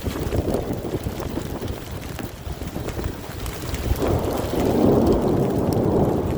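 Thunderstorm: a steady low rumble of wind and rain on the microphone, with thunder rumbling louder from about four seconds in.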